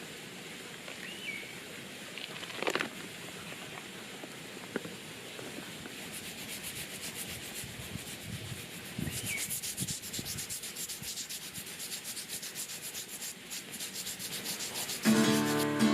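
Rapid, even rubbing or scraping strokes, with a couple of short bird chirps and a few light clicks. Acoustic guitar music comes in about a second before the end.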